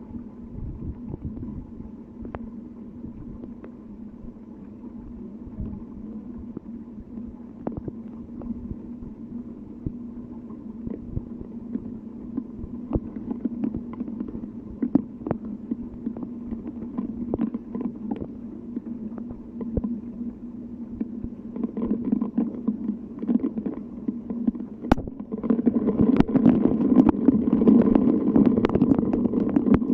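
Rain and wind: scattered sharp drop-like clicks over a low rumbling wash and a steady low hum, swelling louder in the last few seconds.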